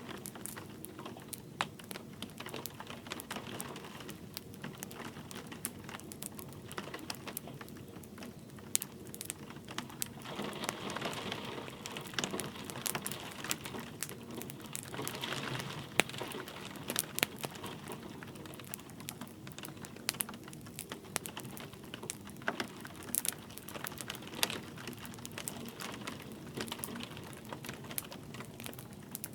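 Wood fire crackling, with many sharp irregular pops and snaps over a steady hiss of light rain. The hiss swells twice in the middle.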